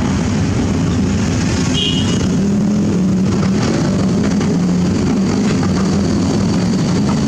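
Heavy diesel engine of an excavator running steadily under work, with a brief high squeak about two seconds in.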